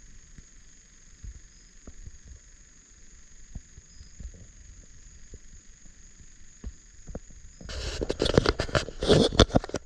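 Loud crackling, rustling noise right at the microphone for about two seconds near the end, like the recording device being handled or brushed, over a faint steady high hiss.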